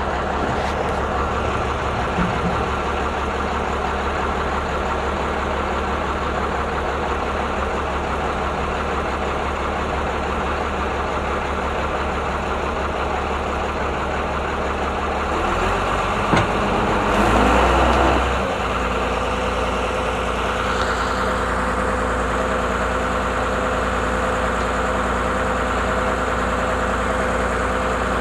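Heavy construction machine's diesel engine running steadily. About halfway through it revs up louder for roughly three seconds, then settles back to a steady drone.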